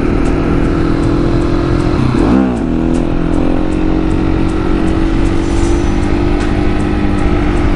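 Husqvarna 701 supermoto's single-cylinder engine running hard at steady high revs under way. About two seconds in the revs briefly dip and climb again, then hold steady.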